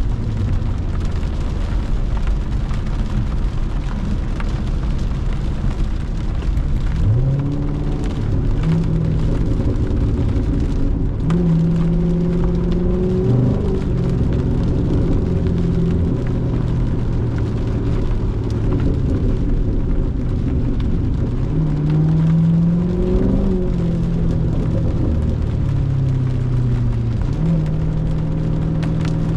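C7 Corvette's V8 engine under way, rising in pitch as it accelerates several times and settling in between as it cruises. Tyre hiss on the wet road runs beneath it.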